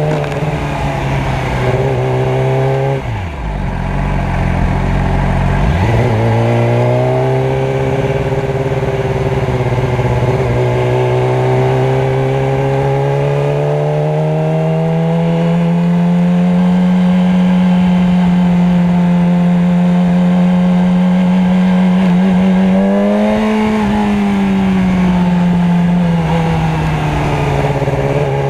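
Motorcycle engine running in traffic. The revs drop sharply about three seconds in and climb back a few seconds later. The note then holds steady, rising a little midway, with a brief rise and fall near the end.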